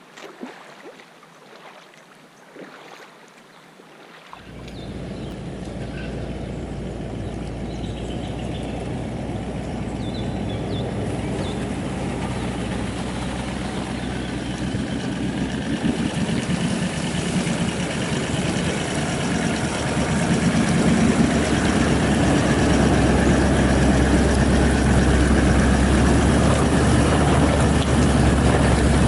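A four-wheel-drive vehicle's engine running while it drives, a steady low drone that starts suddenly about four seconds in and grows louder about twenty seconds in. Before it there are only faint outdoor sounds with a few light clicks.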